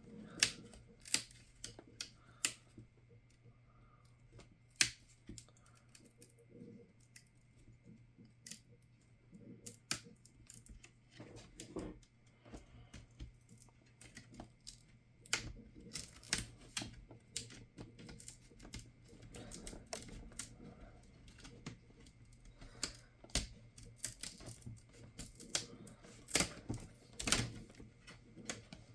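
Irregular sharp clicks and taps of tools and plastic parts being handled while a laptop is taken apart, coming in small clusters near the start, around the middle and near the end.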